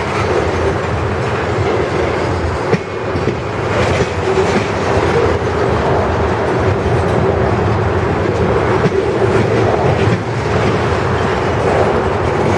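Loaded freight train cars rolling steadily past at close range, a continuous rumble of steel wheels on rail with occasional sharp clacks as wheels cross rail joints.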